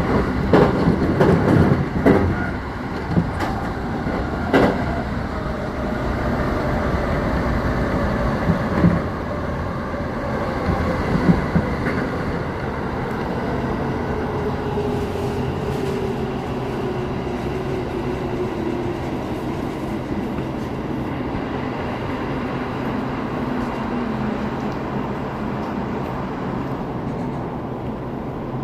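Electric commuter train heard from inside the car as it slows into a station. There is wheel clatter over rail joints in the first few seconds, a steady running rumble, and a motor whine that falls steadily in pitch as the train brakes.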